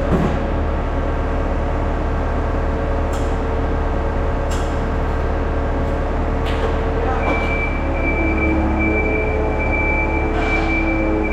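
Skid steer engine running steadily, with a few clanks and a thin high whine that comes in about seven seconds in.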